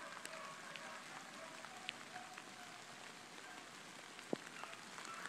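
Light rain falling through woods: a steady soft patter with scattered drop ticks, one sharper tick a little after four seconds in.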